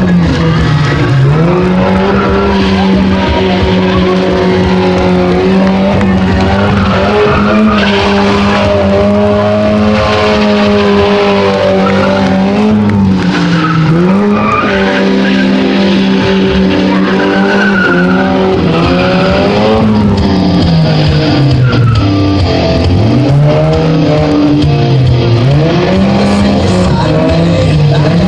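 Stunt car engine held at high revs, its pitch dropping and climbing back again several times, with tyres skidding as the car slides in a drifting run.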